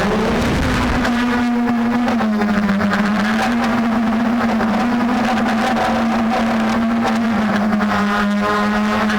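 DJI F450 quadcopter's brushless motors and propellers running, the pitch rising briefly at the start and then holding as a steady hum with irregular clicks through it. This is the strange noise that the owner suspects comes from the motors.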